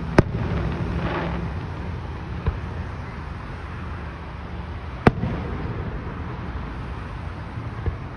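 Aerial fireworks bursting. A sharp bang comes just after the start and is followed by a brief crackle, a fainter bang comes about two and a half seconds in, another sharp bang about five seconds in, and a faint one near the end.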